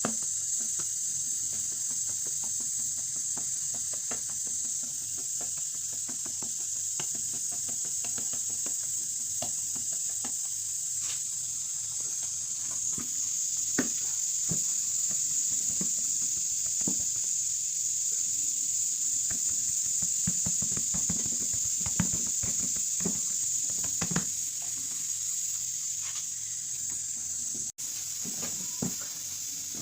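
A steady high hiss with scattered light knocks and taps, a few sharper ones about halfway through and again later.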